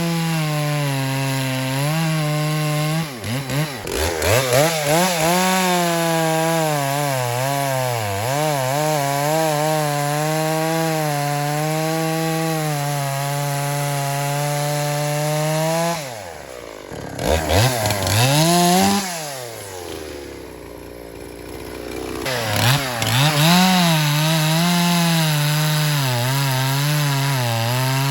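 Dolmar two-stroke chainsaw cutting firewood under load, its engine pitch sagging and recovering as the chain bites into the wood. Around the middle it eases off for a few seconds with one quick rev, then pulls back into the cut.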